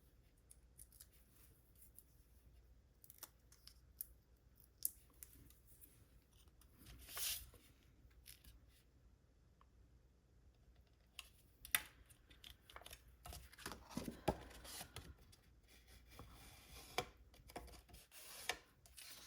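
Quiet handling of paper and small craft pieces: scattered light clicks and taps with a few short rustles of cardstock, and one brief louder scrape about seven seconds in.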